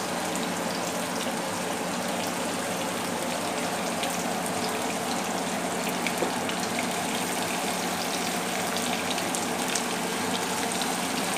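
Vegetables sizzling in a hot wok, with scattered crackles, over the steady noise of a kitchen range hood fan.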